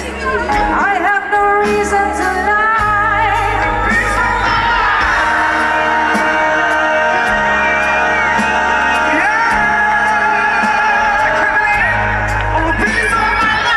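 A live band playing a song, with a singer's wavering vocal line over a steady bass line.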